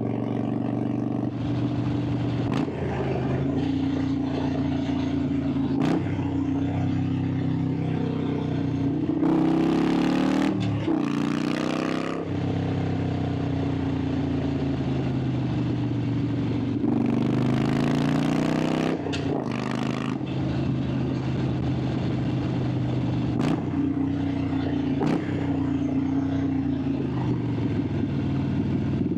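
Harley-Davidson Sportster 883's air-cooled V-twin running under load through a series of curves, its exhaust note rising and falling with the throttle. There are several brief breaks in the note, and louder rushing noise about ten seconds in and again near eighteen seconds.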